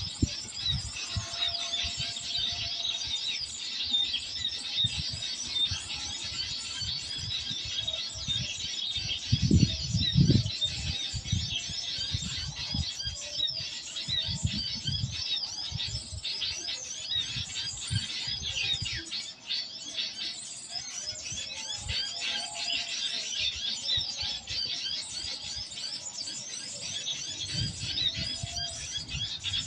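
Small birds chirping busily and without a break, many quick overlapping high chirps. Low rumbles come and go beneath them, loudest about ten seconds in.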